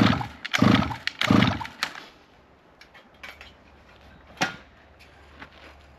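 A small mini-bike engine being cranked by hand in a few quick strokes during the first two seconds, without catching. After that it is quiet apart from a sharp click near the middle.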